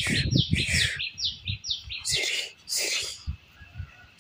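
A bird calling in a rapid series of short, high, falling chirps, several a second, thinning out after about two seconds. Mixed with this are a few short rustling scrapes of a pet brush being drawn through a puppy's long coat.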